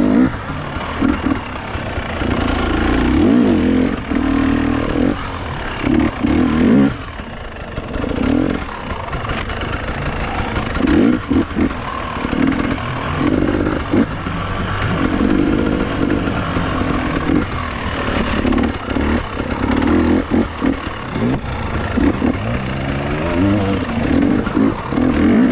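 KTM two-stroke enduro motorcycle ridden off-road, its engine revving up and dropping back again and again as the throttle is opened and closed.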